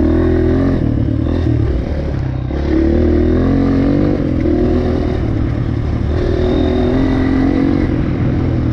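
Enduro dirt bike engine running under way on a trail, its revs rising and falling with the throttle; the revs drop about two seconds in and pick up again.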